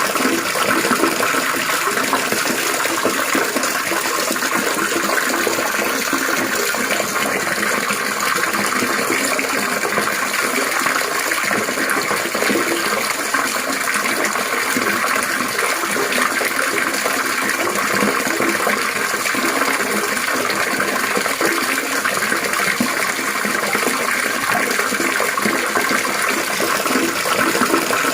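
Water trickling and splashing steadily and without a break: a continuous gurgling water sound.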